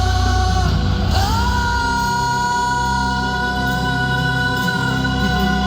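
Live rock band music played through a concert sound system, with a long held note that slides up about a second in and is sustained throughout.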